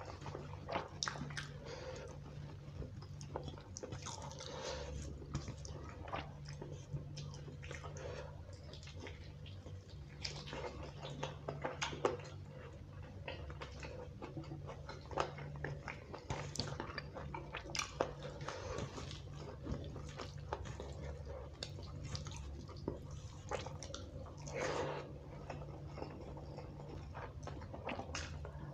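Close-miked eating sounds: wet chewing and smacking as rice and chicken curry are eaten by hand, in irregular clicks, with fingers squishing rice on a steel plate. A steady low hum lies underneath.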